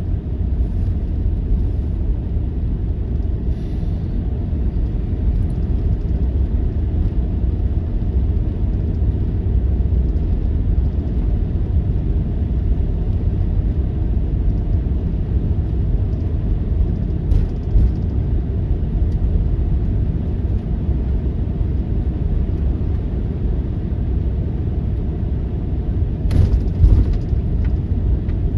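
Strong blizzard wind buffeting the microphone, a steady low rumble that swells and eases slightly.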